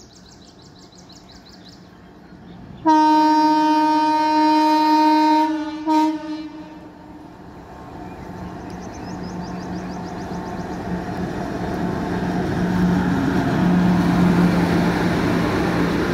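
Passenger express train's locomotive horn: one long blast of about two and a half seconds, then a short second blast. The train's rumble then keeps building as it approaches and its coaches run past the platform.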